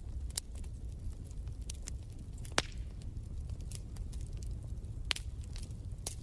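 Wood fire crackling in a fireplace: scattered sharp pops and snaps over a steady low rumble, with one louder pop a little under halfway through.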